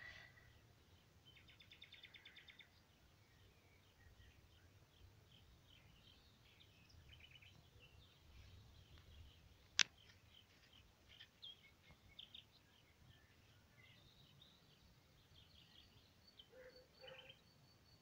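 Faint songbird chirps and calls, with a short rapid trill about a second and a half in. A single sharp click comes near the middle and is the loudest sound.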